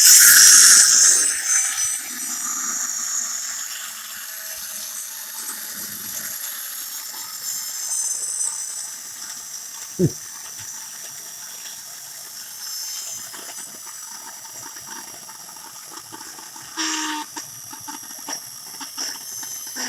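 Plastic toy truck's friction motor whirring as its flywheel spins down after being revved. The hissing whir is loudest at the start and fades, its whine slowly falling in pitch. There is a single knock about ten seconds in and a brief whir again near the end.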